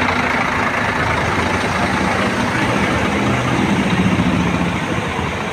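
Large diesel bus engine running at low revs, its pitch shifting a little partway through.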